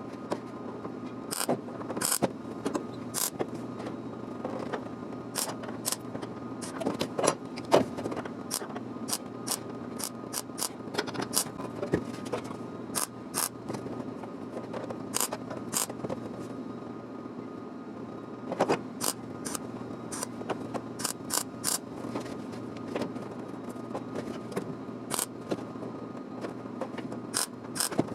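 Light, irregular metallic clicks and taps with some scraping, from handling small metal parts and hand tools, over a steady low hum.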